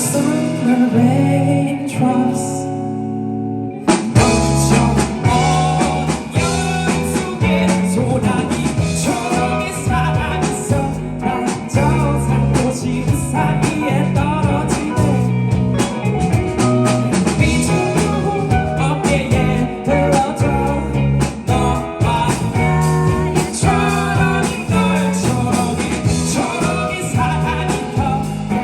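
Live rock band playing, with electric guitar over bass. A sparser stretch of held chords opens it, and the full band with drum kit comes in about four seconds in and keeps a steady beat.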